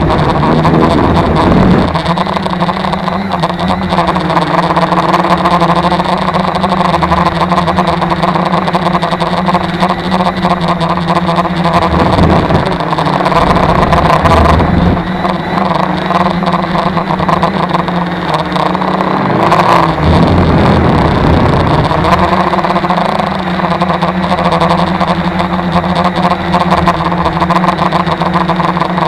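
Tarot 650 quadcopter's electric motors and propellers whirring steadily in flight, their pitch dipping and recovering twice as the throttle changes. Strong wind rumbles on the microphone.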